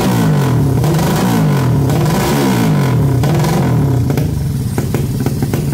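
An engine revved in repeated blips, each one falling back in pitch, about one a second. It then settles into a steadier run, with sharp clicks near the end.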